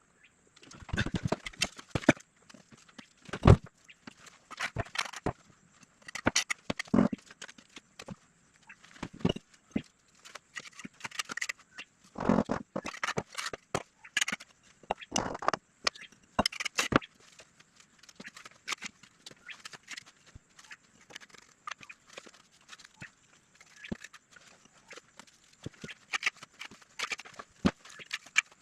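Irregular knocks, clicks and scrapes, the loudest knock about three and a half seconds in.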